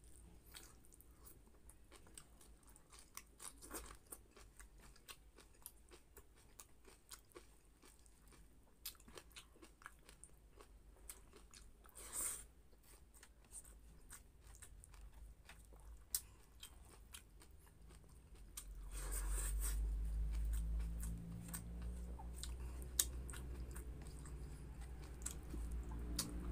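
Close-miked mouth sounds of a person eating a mukbang meal of rice and fish by hand: wet chewing with many small clicks and crunches. About two-thirds of the way through, a low steady hum of unknown source comes in and stays as the loudest sound.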